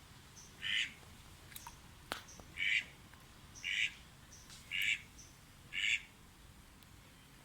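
A duck quacking five times, short calls about a second apart, with faint high chirps and a few clicks between them.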